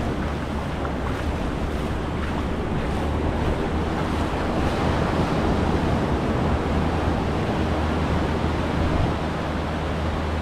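Surf washing onto a sandy beach, a steady wash of water, with wind rumbling on the microphone.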